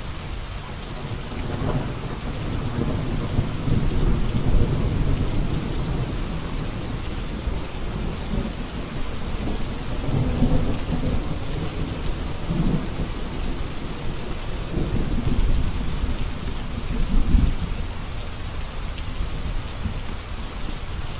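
Steady rain with rolls of thunder: low rumbles swell and fade several times over the hiss of the rain.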